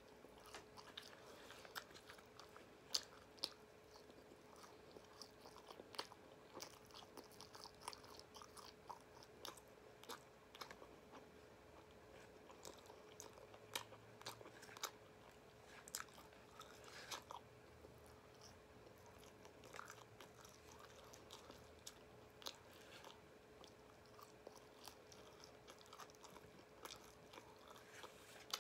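Faint close-up chewing and biting of fried chicken pieces, with scattered sharp crunches and mouth clicks. A faint steady hum runs underneath.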